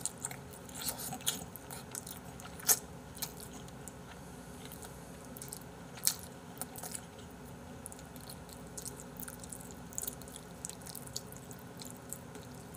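Close-miked chewing of spicy chicken and beef-intestine stew (gopdoritang): wet mouth smacks and short clicks, the sharpest about 3 and 6 seconds in.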